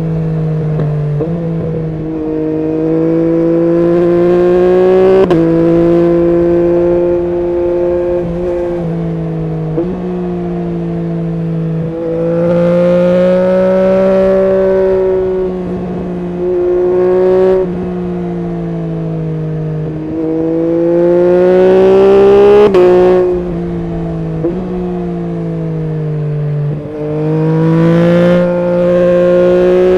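Yamaha MT-09 SP's three-cylinder engine through an Akrapovic full exhaust system, pulling up through the gears. The engine note climbs steadily and then drops sharply at each gear change, about five times, with short sharp cracks at some of the shifts.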